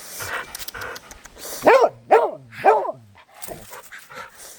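Dog barking three times in quick succession, each bark short and arched in pitch, about half a second apart.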